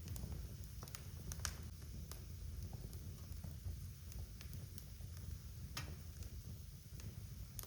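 Wood fire in a fireplace crackling: a low steady rumble of burning with scattered sharp pops, the loudest about a second and a half in and again near six seconds.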